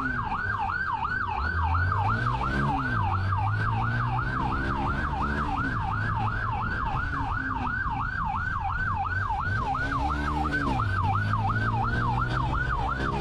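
Police siren on a fast yelp setting, sweeping quickly up and down about three times a second throughout, over a vehicle engine whose revs rise and fall twice.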